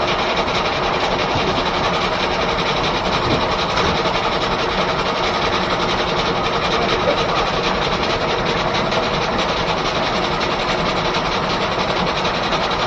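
Steam-powered sawmill running: the 1880s R.R. Howell left-hand sawmill's machinery, driven by a steam engine, making a steady, fast, rhythmic mechanical noise.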